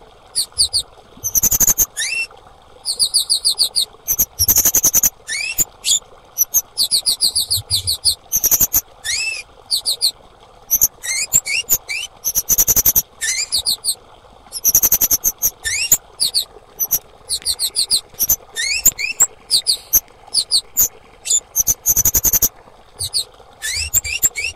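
Female kemade calling: rapid bursts of high, thin chirps and trills in quick succession, some notes sweeping upward, with short gaps between bursts.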